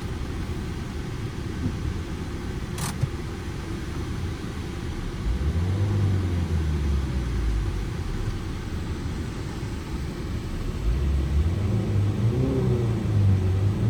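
Manual Ford Transit Connect petrol van driving, heard from inside the cab: a steady low road and engine rumble. The engine note grows louder about five seconds in and again from about eleven seconds on. A brief hiss sounds about three seconds in.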